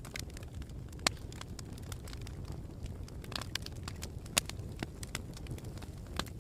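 Campfire burning with a steady low rumble and irregular sharp crackles and pops from the burning wood, two of them louder, about a second in and past four seconds.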